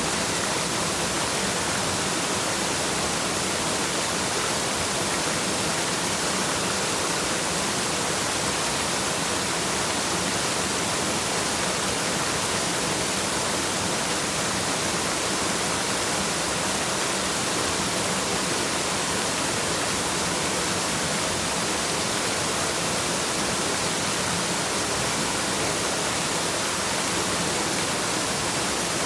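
Waterfall: a steady, unbroken rush of falling water, an even hiss with no change.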